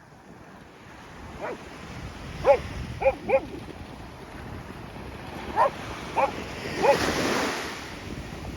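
A dog barking in short single barks, about seven in all, in two bunches. Under it, surf washes on the shore with wind noise on the microphone, a wave swelling loudest about seven seconds in.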